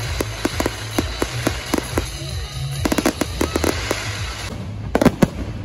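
Aerial fireworks bursting in quick succession: many sharp cracks and bangs, several a second, with two louder bangs about five seconds in.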